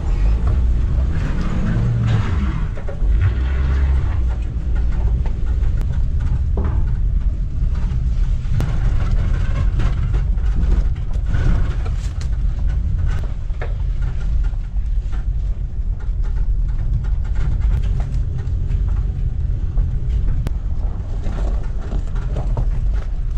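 Steady, loud low mechanical rumble with scattered clicks and knocks.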